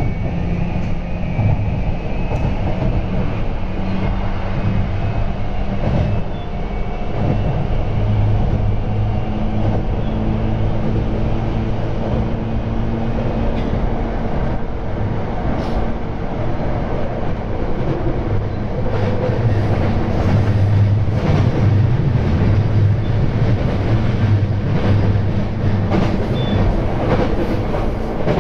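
Running noise inside a JR East E235 series electric train at speed: a steady low rumble and hum from the wheels and drive. Short clicks of the wheels over the rails come more often in the second half.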